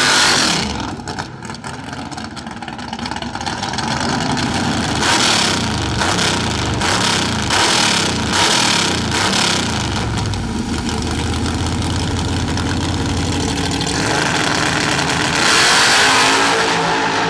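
Drag racing car engine running and revving, with a string of sharp cracks in the middle and a louder surge near the end.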